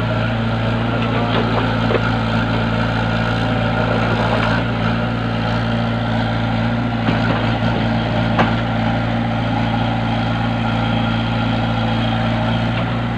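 An engine running steadily at a constant speed, with a few short knocks over it.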